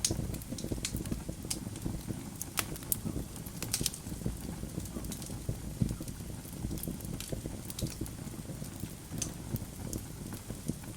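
Wood fire burning in a fireplace: logs crackling, with irregular sharp pops over a steady low rumble of flames.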